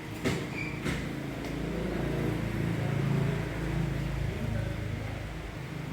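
A motor vehicle's engine running nearby, its low hum growing louder for a few seconds and then easing off, with a few sharp clicks in the first second and a half.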